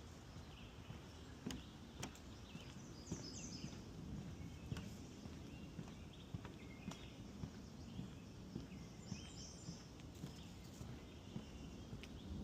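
Footsteps on a wooden boardwalk, a steady run of dull thuds with an odd sharp click, while songbirds chirp now and then in the swamp woods.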